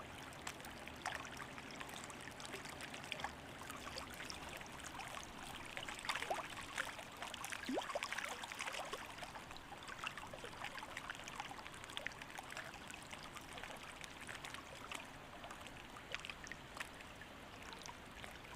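Water trickling and splashing steadily, with many small drips and bubbling plops.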